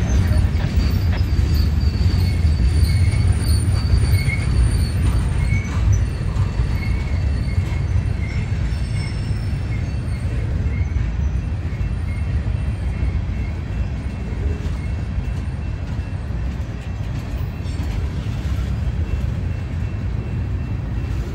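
Empty steel gondola cars of a freight train rolling past with a steady low rumble. Thin, high wheel squeals come and go in the first half and fade out after about nine seconds.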